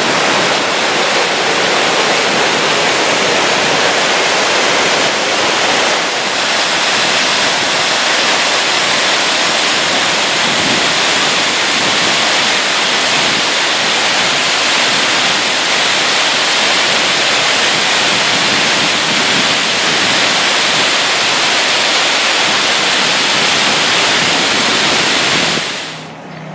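Waterfall running at full spring flow: a loud, steady rush of falling water that drops away just before the end.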